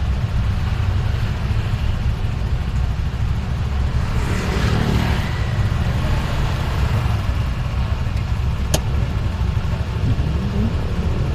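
Road noise heard while travelling through city traffic: a steady low rumble, a louder swell as a vehicle goes by about four seconds in, and a single sharp click near the end.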